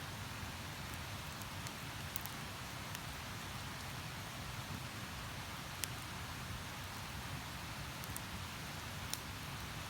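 Steady rush of flowing stream water with a wood campfire crackling over it in sparse, sharp pops.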